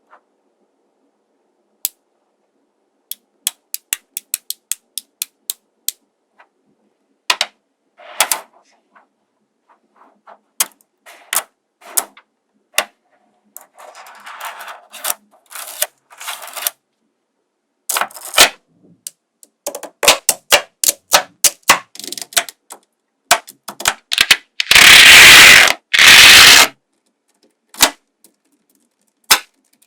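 Small magnetic balls snapping together in sharp clicks, some single and some in quick runs of several, with short rattling stretches as they slide and roll against each other. A loud rushing noise about two seconds long comes past the middle.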